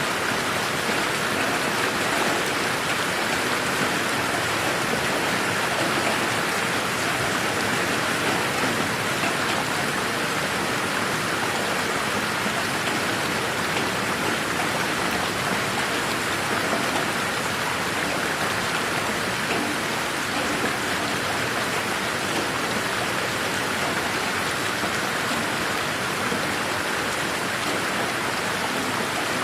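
Steady rain falling, an even, unbroken hiss of drops on surfaces with no thunder.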